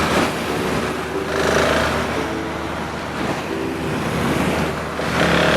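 Suzuki Hayabusa motorcycle engine idling steadily.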